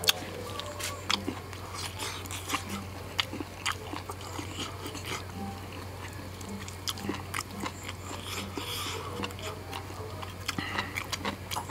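A man chewing and biting steamed turtle meat, with irregular wet mouth clicks and crunches, over a steady low hum.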